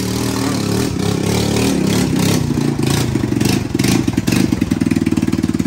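Dirt bike engine idling, then revved up a couple of seconds in and running loud with a fast, rattling firing beat.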